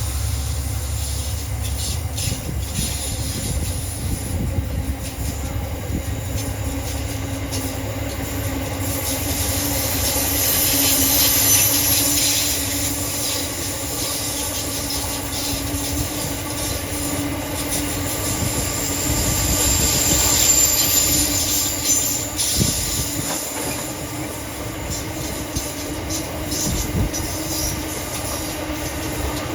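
Aurizon coal train rolling past with a steady low rumble and the clatter of wagon wheels over the rail. High-pitched wheel squeal swells about ten seconds in and again around twenty seconds in.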